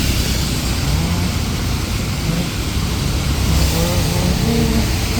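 Steady wash of rain and road traffic with a deep rumble underneath. Faint voices come in near the end.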